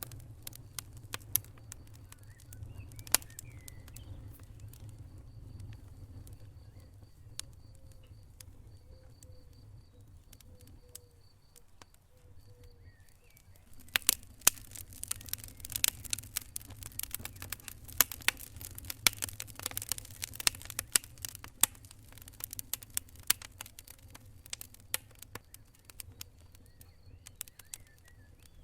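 Wood fire crackling in a fireplace: scattered sharp pops over a low, steady rumble of the flames, turning to dense, rapid crackling from about halfway through until near the end.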